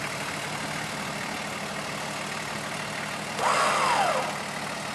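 Toyota LandCruiser 60 Series turbo diesel engine idling steadily. About three and a half seconds in, a brief call rises and falls in pitch over it for under a second.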